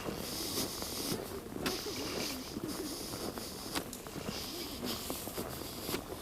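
Outdoor walking ambience: a steady hiss with a few scattered footstep-like clicks and faint distant voices.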